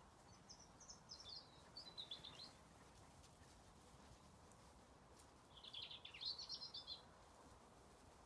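A songbird singing two short phrases of quick high notes, the first starting about half a second in and falling in pitch, the second about five and a half seconds in. Faint steady background noise underneath.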